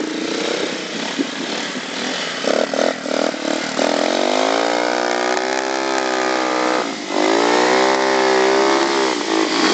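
Enduro motorcycle engine revving under load as the bike is ridden through deep mud: a few short blips, then two long revs of about three seconds each, the pitch swelling and easing off.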